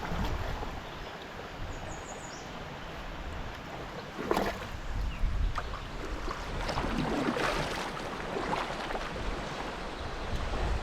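Kayak drifting down a river: running water lapping around the hull, with a few louder splashes around the middle and later on.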